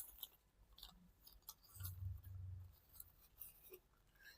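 Faint crinkling and creasing of a sheet of origami paper being folded by hand, a few soft scattered ticks and scratches.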